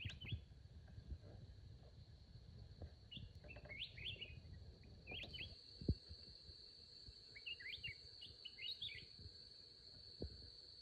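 Small birds chirping in short bursts over a steady high insect drone, with a few dull knocks, the loudest about six seconds in.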